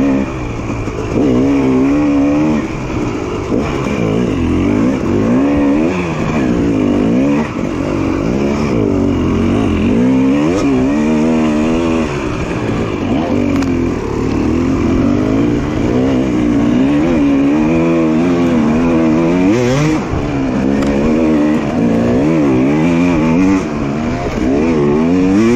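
Two-stroke dirt bike engine ridden on a trail, the throttle constantly worked so the revs rise and fall every second or so, with a few brief drops.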